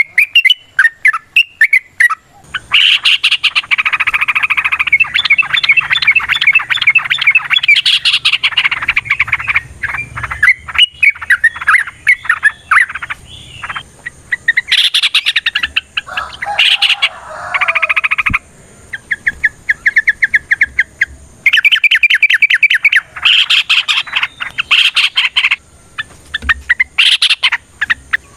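Yellow-vented bulbuls (trucukan) singing in loud, rapid chattering runs of notes, long rolling phrases with short gaps between them and at times overlapping, the lively competing song used to provoke other bulbuls into answering.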